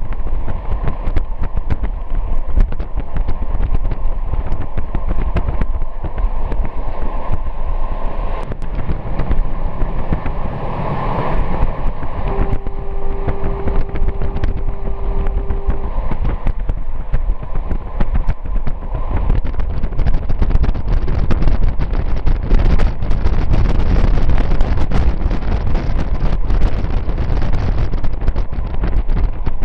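Passenger train running along the line, heard from an open carriage window: a steady rumble with rapid clicking from the wheels on the rails and wind rushing past. A single steady tone is held for about three and a half seconds midway.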